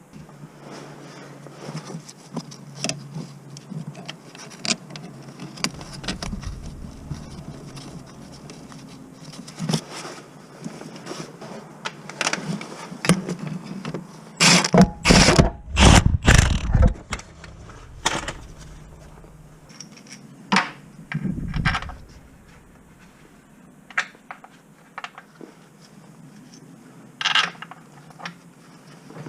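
Metal tools and parts being handled: scattered clinks, knocks and scrapes, with a run of loud knocks about halfway through and a couple of dull low thuds.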